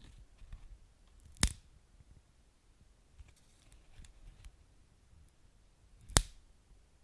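Wood fire crackling, with two loud sharp pops, one about a second and a half in and one near the end, and a few fainter crackles between them over a low rumble.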